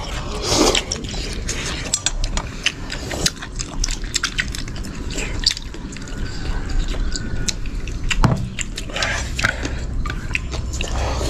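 Mealtime table sounds: many sharp clicks and taps of utensils against dishes, with wet liquid sounds from a breakfast of noodle-piece soup.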